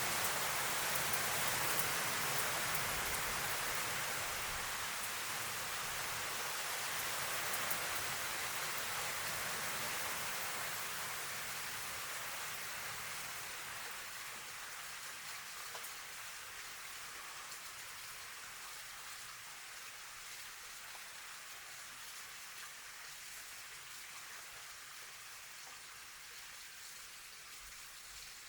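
Heavy rain falling steadily, a dense even hiss of drops, that grows gradually softer from about a third of the way in.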